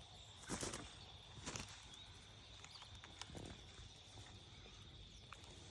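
A few short rustling flurries, about three of them, from a trapped myna flapping its wings against thorny branches.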